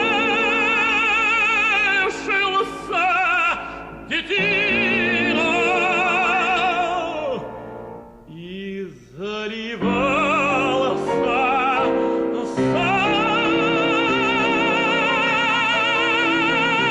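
Operatic tenor singing long held notes with strong vibrato over instrumental accompaniment, ending on one long sustained high note. This is the closing phrase of a Russian romance.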